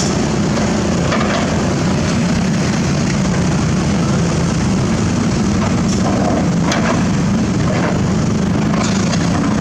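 Excavator's diesel engine running steadily with a constant low hum, with a few faint clanks or scrapes about six to eight seconds in.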